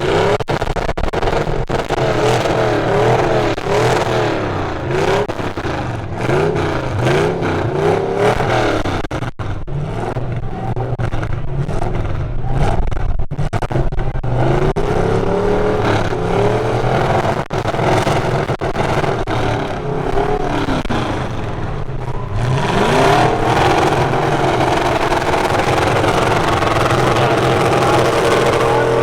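Full-size truck engines revving hard, their pitch rising and falling again and again, with one sharp rev climbing high about three quarters of the way through.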